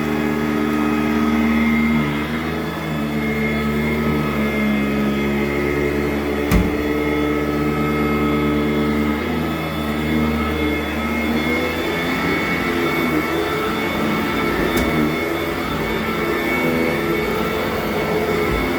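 Sanitaire SC899 commercial upright vacuum running over carpet, its motor tone shifting in pitch a few times, with a single sharp knock about six and a half seconds in.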